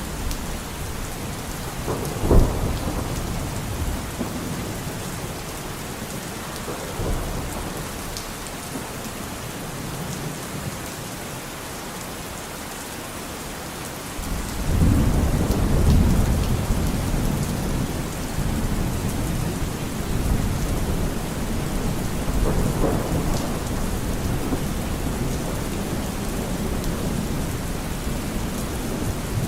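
Steady rain falling with thunder: a sharp crack about two seconds in, then a long low rumble rolling in about halfway through and fading slowly, with fainter rumbles around it.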